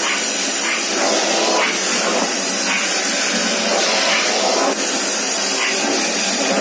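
Gorenje VC 2321GPLW canister vacuum cleaner running at a raised power setting. Its steady rushing suction noise swells and eases roughly once a second.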